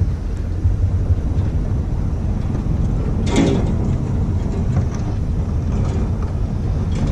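1991 Dodge W350 pickup's 360 V8 engine running with a steady low rumble at low speed. A brief, sharper noise stands out about three seconds in.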